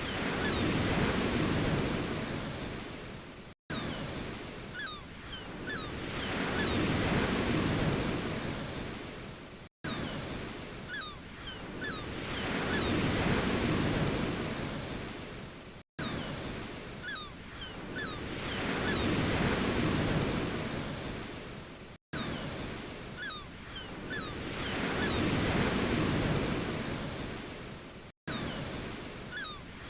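Ocean waves washing in and drawing back, swelling and fading in a regular cycle about every six seconds. A brief dropout to silence falls between cycles, the seam of a short looped recording.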